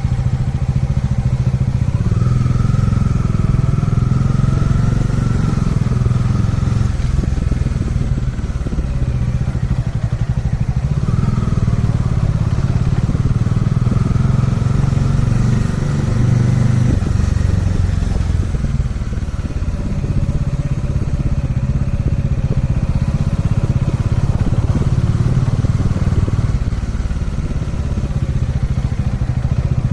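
Kawasaki Dominar 400 UG2's single-cylinder engine running steadily, a continuous low rumble with small dips in level about eight and seventeen seconds in.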